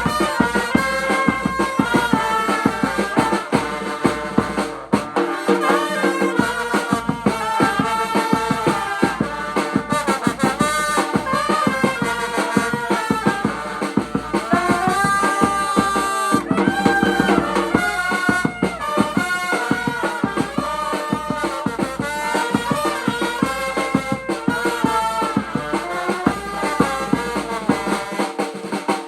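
Vietnamese funeral brass band (nhạc tây) playing: trumpets and trombones carry a melody over a steady, busy drum beat.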